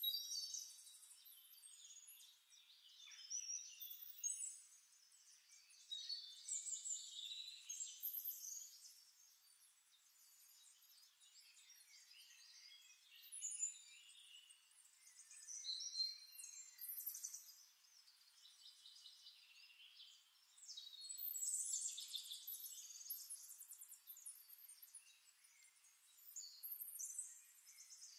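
Faint high-pitched chirps and trills of birdsong, in clusters every few seconds, with nothing in the low range.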